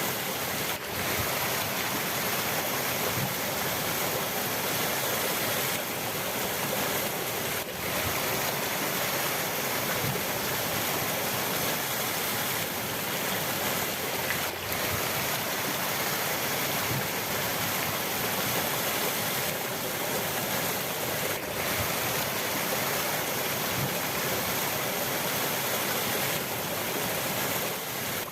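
River water rushing steadily, a constant even wash of flowing water.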